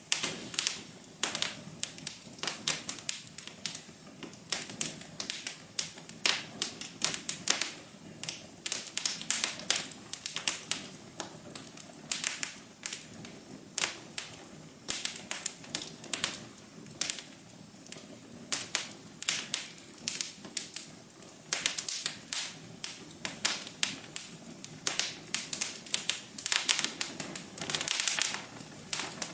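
Wood fire in a fireplace crackling: irregular sharp pops and snaps, several a second and uneven in loudness, over a soft low hum.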